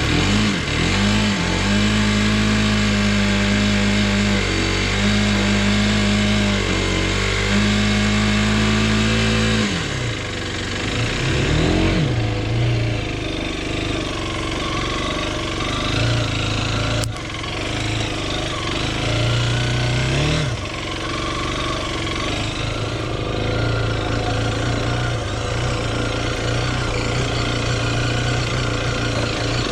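Derbi Terra 125's single-cylinder four-stroke engine running on the road at steady revs, its pitch dropping and picking up again a few times in the second half, as when shifting gears or easing off.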